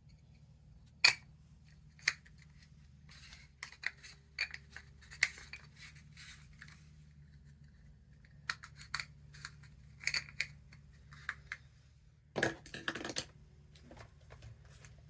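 Scattered light clicks, taps and short scratchy rustles of small craft supplies being handled on a work surface, with two sharper clicks near the start and a busier clatter near the end, over a faint steady hum.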